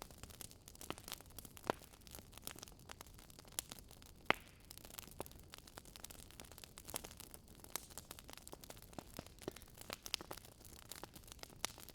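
Wood fire crackling: irregular sharp pops and snaps over a faint steady hiss, with a louder pop about four seconds in.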